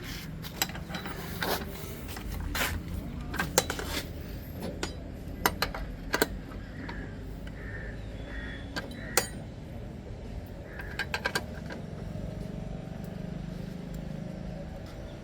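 Irregular metallic clicks and knocks of tools and metal parts being handled and fitted, over a steady low rumble.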